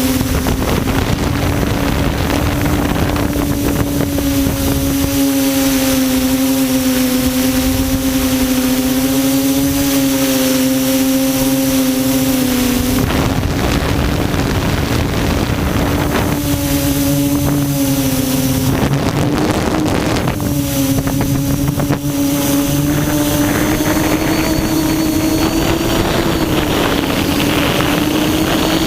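Quadcopter's electric motors and propellers running in flight, heard from the onboard camera: a steady hum whose pitch drifts a little with throttle and rises slightly near the end, with wind rush on the microphone.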